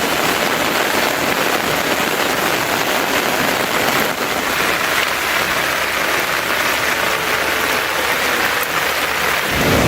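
Heavy rain falling steadily, a dense even hiss of drops on surfaces. A low rumble comes in just before the end.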